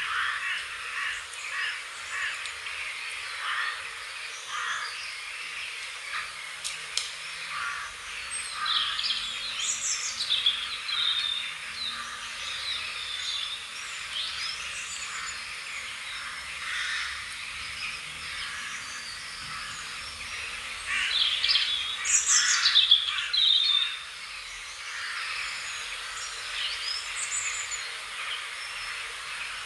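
Several birds chirping and singing, a busy chorus of short calls and trills, with a louder run of quick falling notes about two-thirds of the way through.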